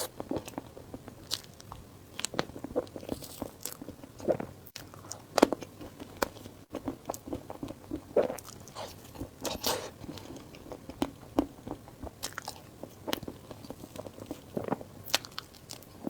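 Close-miked eating: biting and chewing food, heard as irregular sharp clicks and a few louder snaps.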